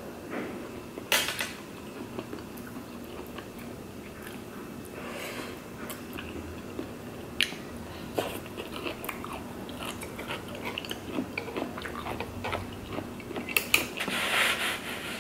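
Close-up mouth sounds of chewing chewy tteokbokki rice cakes with melted cheese, mixed with metal chopsticks clicking against the metal pan a few times, the sharpest click about a second in. There is a denser burst of eating noise near the end.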